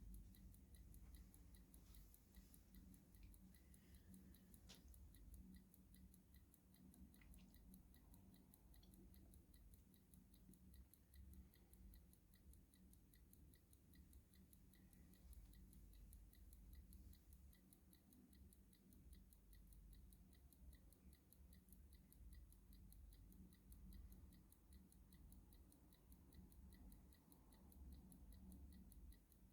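Clock ticking faintly with a steady, even beat, over a low hum.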